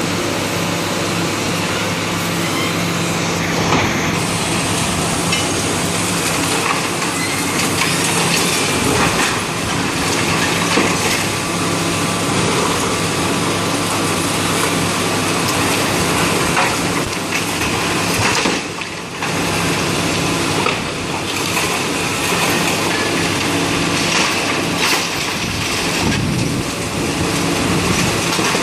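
Heavy demolition machinery running steadily, with a diesel engine and irregular knocks and crunches of material being broken up.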